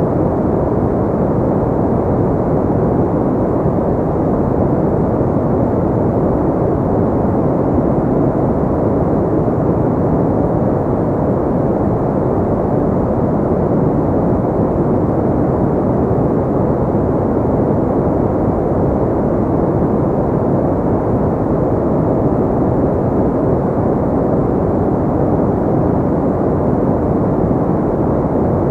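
Steady, unchanging noise used as a sleep sound, deep and muffled with no hiss at the top: filtered noise closer to brown noise than to bright white noise.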